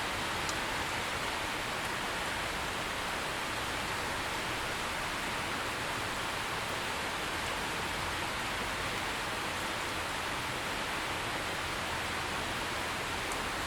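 Rain falling steadily, a dense, even hiss with no thunder.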